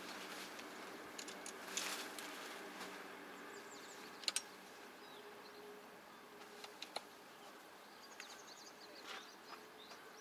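Quiet outdoor ambience with faint bird chirps and a few light clicks and knocks.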